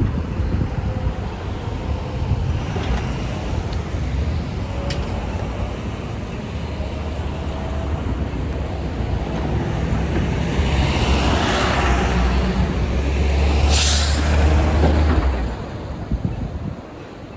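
A diesel transit bus passing in traffic, its engine drone building and then falling away, with a short sharp air hiss from its air brakes about 14 seconds in.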